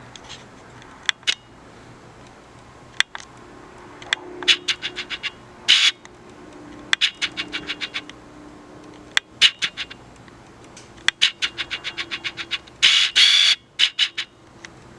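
Rapid runs of sharp mechanical clicks, about nine a second, repeated several times, with a couple of short scraping hisses, one about six seconds in and a louder one near the end.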